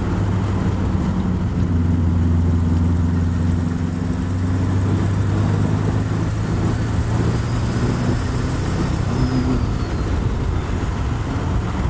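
Turbocharged TVR Chimaera V8 running at a steady cruise, an even low drone with no big revving. A faint high whistle comes in about two thirds of the way through and fades.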